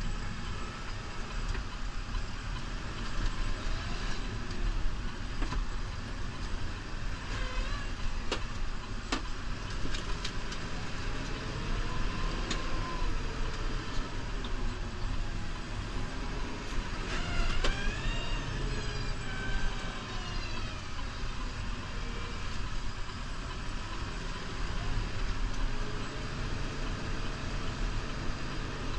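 New Holland Powerstar 75 tractor's diesel engine running steadily under load while plowing snow, with a few sharp clicks and brief squeaks around the middle.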